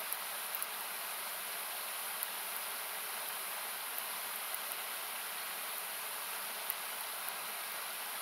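Steady hissing rush of a river, equalised so that it sounds thin and noisy, with a few scattered sharp pops and crackles of a wood campfire.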